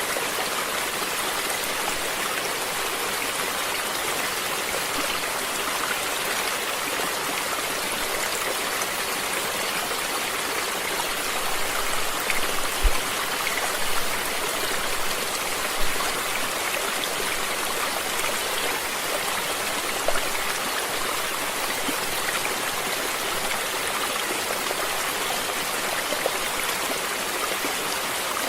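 Running water flowing steadily, with a few brief louder splashy moments about halfway through.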